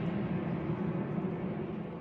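Airplane passing overhead: a steady, broad, low rumble that slowly fades as it moves away.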